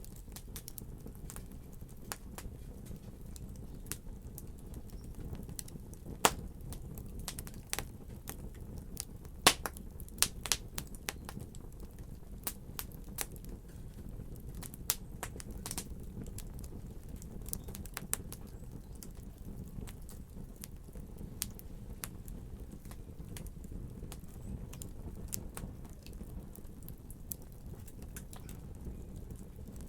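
Wood fire in a fireplace crackling: irregular sharp pops and snaps over a steady low rumble of the flames, with a few louder pops about six and ten seconds in.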